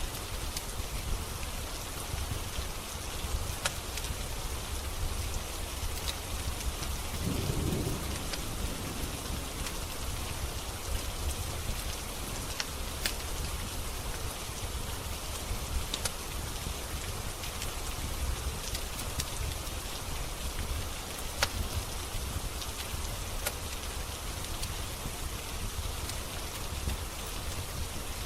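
Steady rain with a deep low rumble beneath it. Sharp crackles and pops from a wood fire are scattered through it every few seconds.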